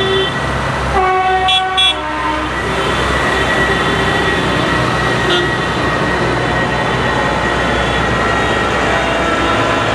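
Tractor engines running steadily as the parade passes, with a horn sounding about a second in, ending in a few short toots, followed by an even low rumble.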